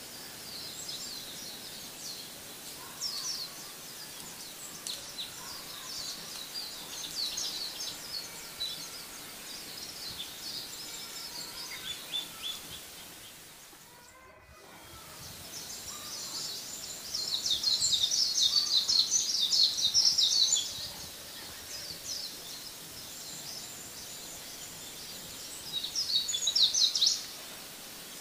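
Small birds chirping and twittering in quick high-pitched calls, thickening into a dense burst of rapid chirps about two-thirds of the way through and another short burst near the end; the sound dips out briefly and fades back in around the middle.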